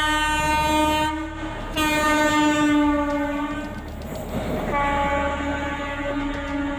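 Train horn sounding in long blasts: one ends about a second in, a second runs from about two to four seconds in with a slight drop in pitch, and a third starts about five seconds in and carries on.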